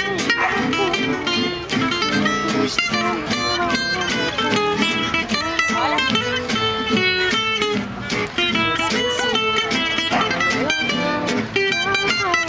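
Acoustic guitars playing gypsy jazz (jazz manouche): a plucked melody line over steadily strummed rhythm chords.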